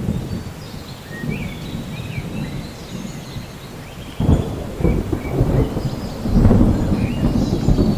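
Steady rain with rolling thunder; the rumble jumps up suddenly about four seconds in and swells again a couple of seconds later. Short high chirps sound faintly above it.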